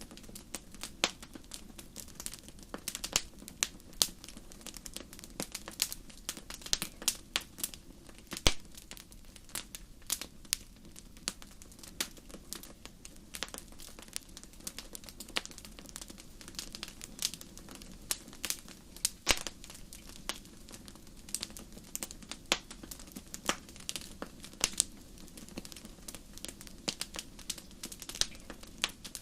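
Wood fire burning in a fireplace: irregular crackles and sharp pops of burning logs over a low steady hiss of the flames.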